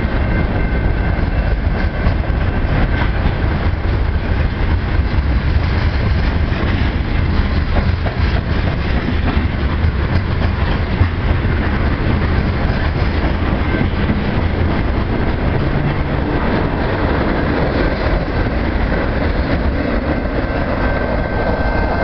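Freight train cars rolling steadily past close by, a centerbeam flatcar and then tank cars, their steel wheels rumbling and clattering over the rails.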